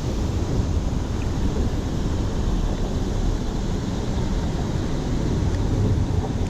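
Steady low rumble of wind buffeting the microphone, uneven and without any engine-like tone.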